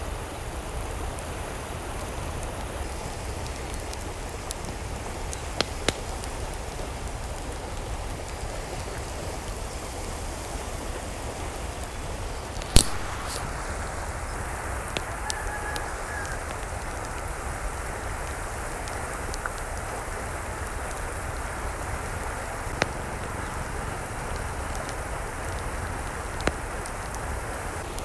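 Steady rain falling, with scattered louder drop ticks and one sharp click about 13 seconds in.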